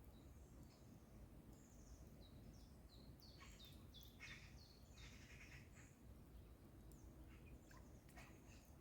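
Faint outdoor birdsong: many short, high chirps and downward-sliding notes throughout, with a few harsher, rasping calls about halfway through that fit magpies chattering. A steady low background rumble lies underneath.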